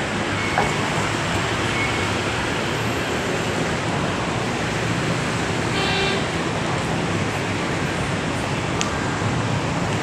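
Steady city traffic noise, with a short pitched toot about six seconds in.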